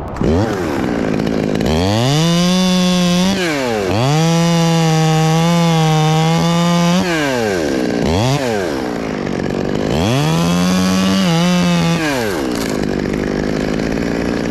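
Two-stroke chainsaw revved up to a high, steady full-throttle pitch three times, with a quick blip in between, dropping back toward idle after each.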